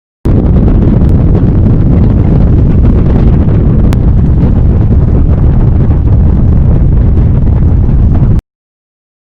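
Loud wind buffeting on the microphone of a GoPro MAX mounted on the back of a Cessna 172, in the airflow: a steady low rumble of rushing air with a few faint clicks. It cuts in just after the start and cuts off abruptly near the end.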